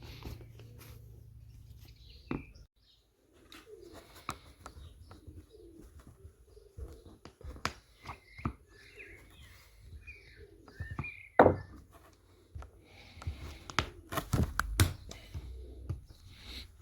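Flat-head screwdriver prying old staples out of a bench seat's fibreboard: scattered clicks, scrapes and sharp metallic knocks, the loudest a little before the middle and again near the end.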